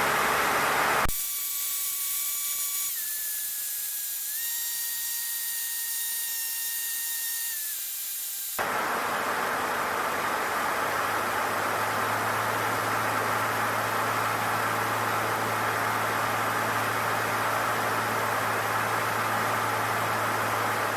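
Cockpit audio of a Cessna 152 in flight, heard through the headset/intercom feed as a steady hiss. The first several seconds are quieter, with a few faint steady tones that shift slightly in pitch. About eight and a half seconds in, the hiss turns louder and wider, and a low steady hum joins it shortly after.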